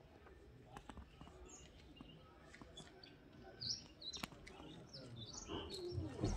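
Faint bird chirps with scattered small clicks, and a low thump near the end.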